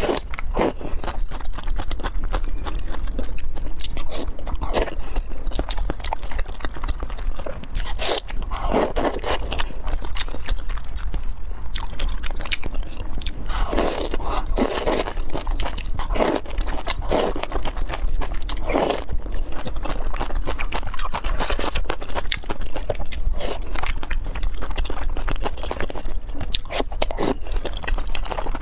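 Close-miked crunching and chewing of crisp green vegetable stalks, with irregular crackly bites, busiest around the middle.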